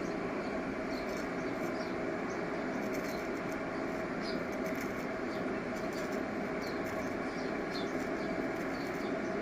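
Electric arc welding a vertical joint: a steady arc hiss with a faint steady hum and small scattered crackles throughout.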